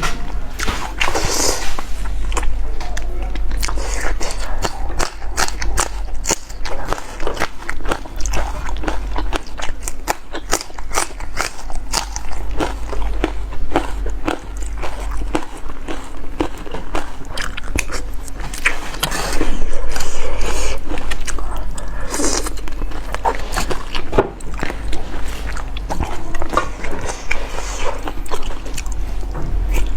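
A person eating close to the microphone, with a dense run of crunching bites and chewing over a steady low hum.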